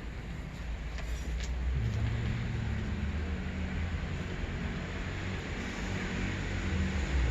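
Low, steady rumble of a motor vehicle's engine, growing louder about two seconds in.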